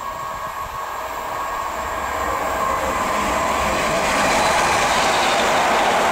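Electric multiple-unit passenger train passing at speed. The noise of its wheels on the rails grows louder over the first four seconds as it approaches, then stays loud and steady as the carriages go by.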